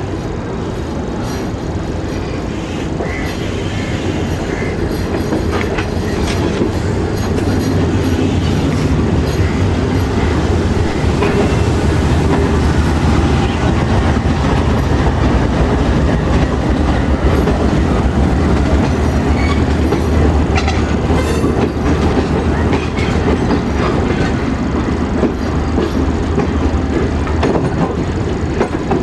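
Passenger train running on the rails, a steady, loud rumble with the clatter of wheels over rail joints, growing louder over the first several seconds as it gathers speed.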